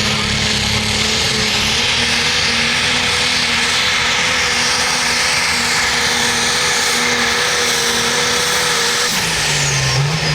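A competition pulling vehicle's engine running wide open as it drags the weight-transfer sled, a loud, steady roar that holds for about nine seconds. Near the end the engine note changes and drops as the run ends.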